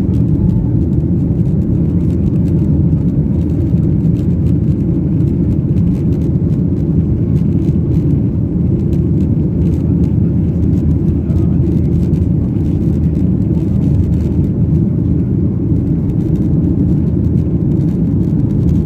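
Steady low rumble of engine and airflow noise inside the cabin of a Boeing 737-800 with CFM56-7B engines.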